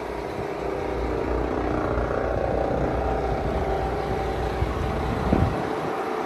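Cat CT13 diesel engine of a Cat CT660S dump truck idling steadily, with an even low rumble. A brief sweeping tone comes about five seconds in.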